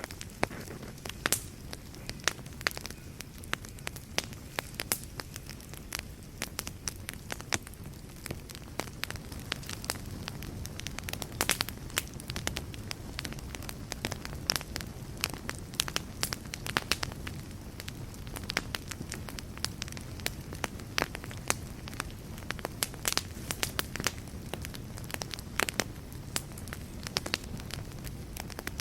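Wood fire in a fireplace crackling, with frequent irregular sharp pops and snaps over a steady low rumble of flame.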